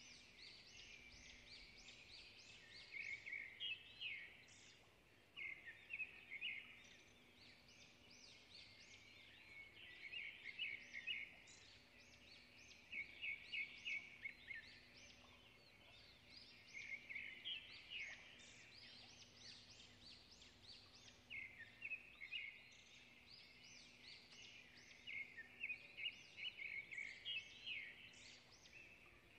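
Faint bird twittering: quick runs of high chirps in short phrases every second or two, over a faint steady low hum.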